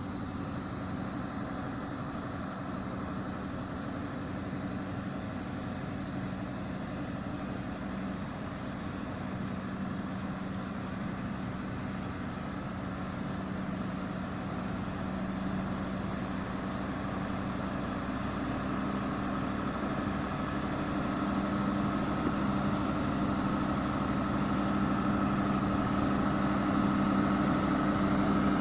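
Mitsubishi Fuso heavy truck's diesel engine running steadily under load, growing louder through the second half as it comes closer.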